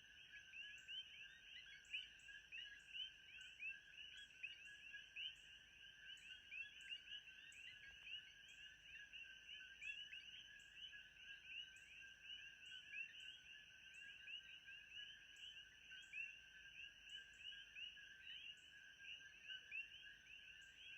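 Faint, steady chorus of many small animal calls: countless short chirps overlapping without a break, with a thin steady high tone and a soft regular pulse above them.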